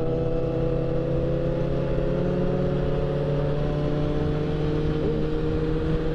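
Four-cylinder motorcycle engine running at a steady, moderate speed under light throttle, its pitch holding nearly level, with low wind rumble underneath.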